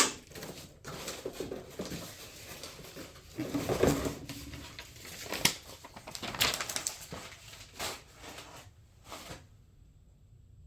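A small plastic hardware bag being handled and opened, rustling with scattered clicks and knocks from the small parts inside. The noise stops about nine seconds in.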